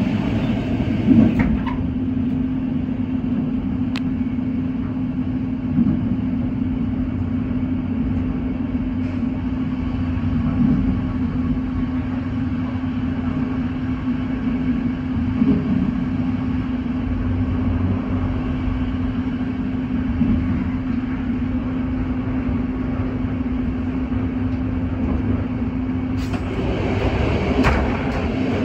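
Passenger train running at speed, heard from inside the carriage: a steady rumble of wheels on rails under a constant hum, with a few light bumps, and more hiss coming in near the end.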